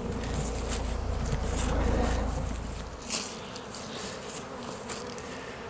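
Honey bee swarm buzzing steadily, many bees flying close by. A low rumble sits under the buzz for the first three seconds, then stops.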